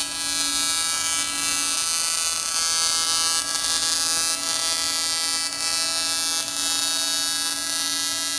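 AC TIG welding arc on aluminum, buzzing steadily with a harsh hiss while the foot pedal is held down for full current.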